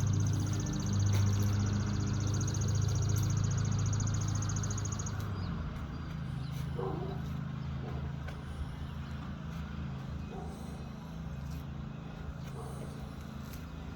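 1992 Buick Riviera's 3.8-litre V6 idling just after a cold start, a steady low running that eases off slightly over the seconds. A thin high whine sits over it and stops about five seconds in.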